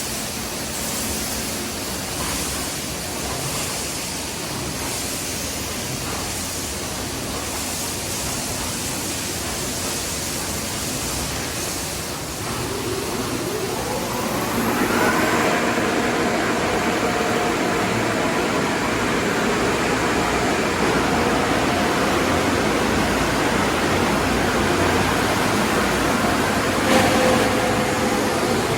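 Automatic car wash tunnel equipment running with no car inside: water spraying with a steady hiss. About halfway through, a motor spins up with a rising whine, likely the dryer blowers, and settles into a louder, steady hum with a drone.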